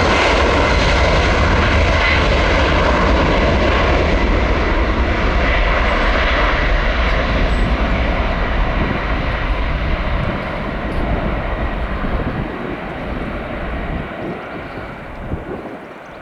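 Boeing 767-300ER's twin jet engines at takeoff thrust as the airliner departs: loud and steady, then fading away over the last several seconds as it climbs off.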